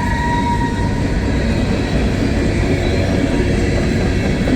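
Empty coal hopper cars rolling past, a steady loud rumble of steel wheels on rail. A thin wheel squeal fades out about a second in.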